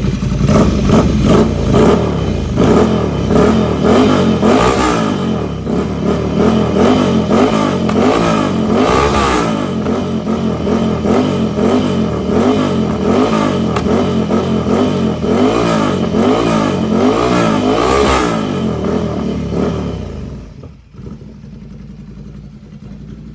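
Ducati Scrambler 800's air-cooled L-twin revved over and over through a headerback exhaust with its dB killer removed, the note rising and falling in repeated blips. About twenty seconds in it drops back to idle.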